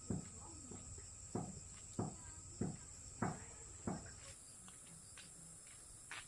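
Insects droning in a steady high chorus, with a regular series of short thuds about every half-second through the first four seconds, thinning out after that.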